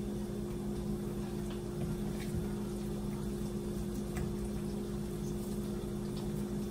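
Crab cakes frying in a pan of oil with a soft, steady sizzle over a steady low kitchen hum, with a few faint ticks and squishes as crab-cake mix is shaped by hand.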